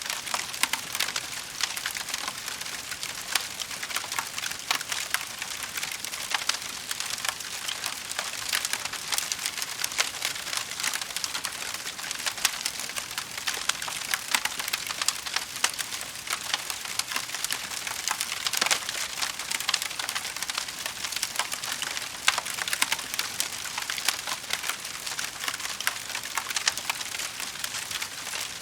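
Wood fire crackling in a fireplace: a steady hiss thick with small irregular pops and snaps, with a few louder cracks now and then.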